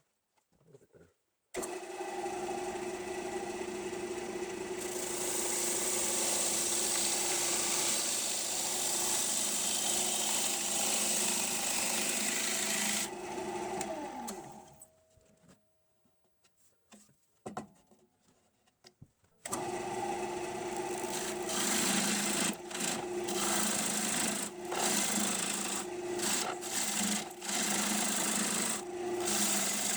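Wood lathe spinning a green maple bowl blank while a turning tool cuts it, a steady machine sound with the hiss and scrape of the cut. About halfway through its pitch slides down and it goes nearly quiet. It then returns suddenly with rougher, uneven cutting strokes.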